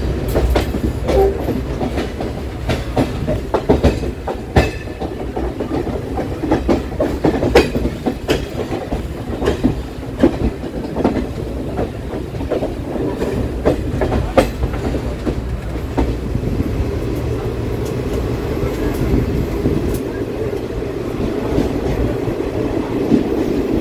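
ICF passenger coach running on the rails, heard from on board: a steady low rumble with many sharp, irregular clicks of the wheels clattering over rail joints, settling into an even rumble for roughly the last third.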